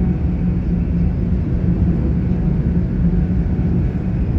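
Class 800 IET train running, heard from inside the carriage as a steady low rumble with a faint constant hum.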